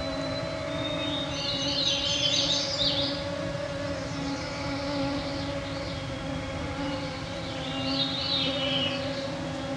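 Mosquitoes whining around the microphones, a steady hum of several overlapping tones. A songbird sings two short phrases over it, about a second in and again near eight seconds.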